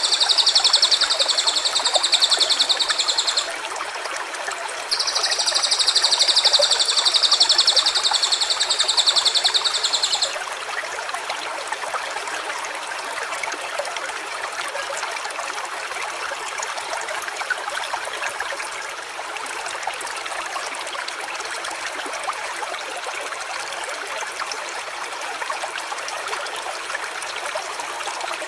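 A stream running steadily with a trickling sound. In the first ten seconds a high, fast-pulsing trill sounds twice, about three and five seconds long, each stopping abruptly.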